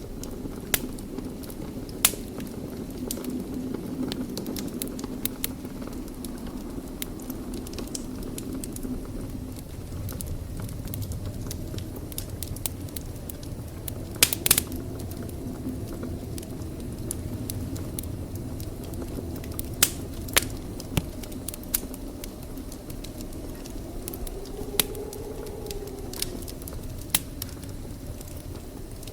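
Wood fire burning in a fireplace: a steady low rumble and hiss of flames, with sharp crackles and pops at irregular intervals and a quick cluster of pops about halfway through.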